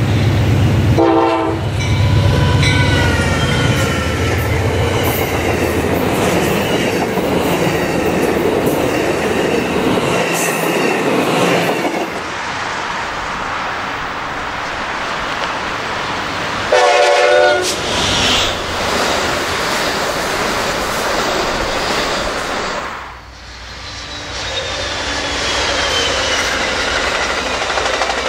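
Amtrak GE P42DC diesel locomotive passing close with a deep engine rumble and a short horn blast about a second in. Later another passenger train sounds a brief horn blast. Then bilevel passenger cars roll past with rumbling wheel and rail noise.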